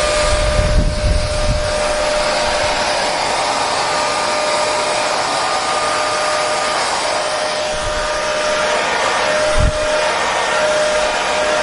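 Hair dryer running steadily: an even rush of air with a steady motor whine on top. A low rumble sounds in the first second or so, and a brief low bump comes near the end.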